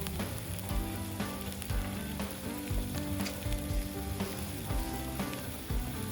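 Meat sizzling and spitting on a hot iron plate over a campfire, a steady frying hiss broken by many sharp pops.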